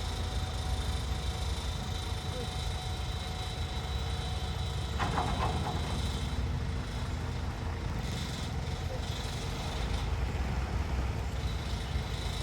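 Heavy vehicle engines running with a steady low rumble, with a short wavering higher-pitched sound about five seconds in.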